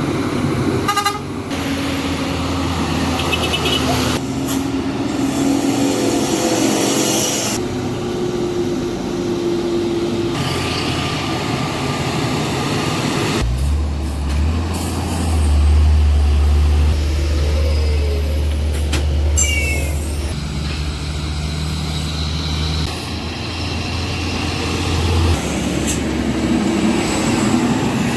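Heavily loaded diesel trucks labouring up a steep climb, with short hisses of air brakes. One truck's deep, low engine drone grows loud about halfway through and fades about three quarters of the way in.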